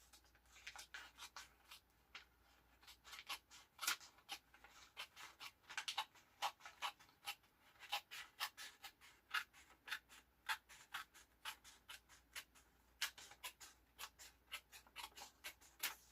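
Scissors snipping through washi tape and paper: a long run of short, sharp snips, about two to three a second.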